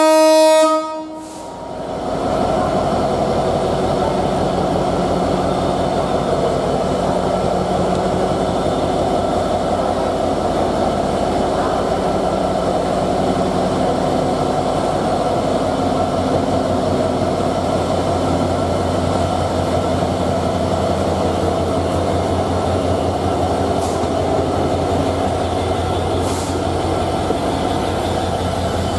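A diesel locomotive horn blows a chord and stops about a second in. Then a passenger train runs steadily on with a continuous rumble of engine and wheels on the rails, a fast low pulsing underneath.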